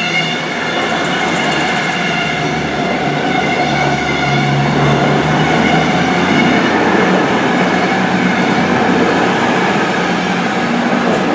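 Class 221 Super Voyager diesel-electric train pulling out under full power, its underfloor diesel engines running hard with a steady, loud drone.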